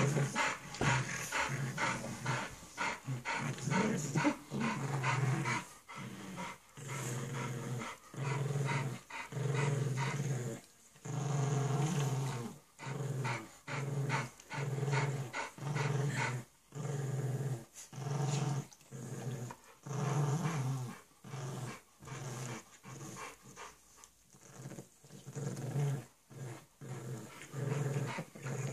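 Bulldog puppy and pug growling in play: a long run of short, low growls, each under a second, coming about once a second with brief gaps between.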